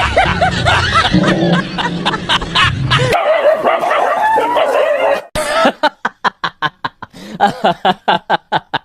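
Dog barking and yipping, over background music for the first three seconds. In the second half it gives a fast run of short barks, several a second.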